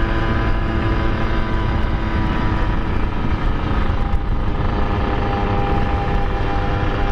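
Kawasaki Ninja R's two-stroke single-cylinder engine running under way, with wind rumble on the rider's microphone. The engine note holds fairly steady, easing and thinning out about three to four seconds in before picking up again.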